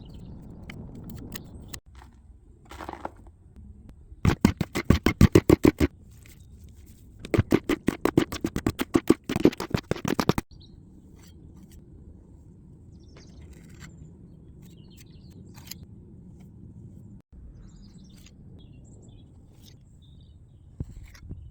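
Rapid rhythmic scraping strokes on brickwork, roughly eight to ten a second, in two bursts of about two and three seconds. Faint birdsong sits under the low background.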